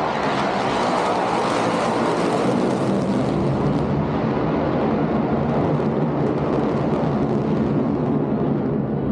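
F-22 Raptor's twin Pratt & Whitney F119 jet engines heard in a demonstration flight: loud, continuous jet noise, the high hiss fading after about four seconds while the lower rumble carries on.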